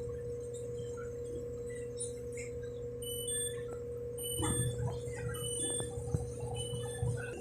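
Passenger train cabin: the train running with a steady low rumble and a constant mid-pitched hum. From about three seconds in, short high chirping tones come in and out over it.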